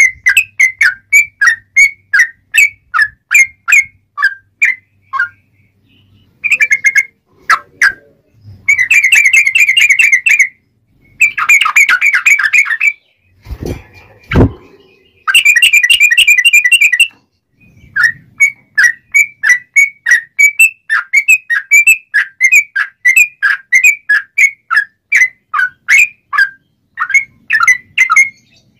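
Yellow-vented bulbul (trucuk) calling: a run of short, sharp chirps about two a second, broken near the middle by three fast chattering trills of about two seconds each. Two sharp knocks come between the second and third trills.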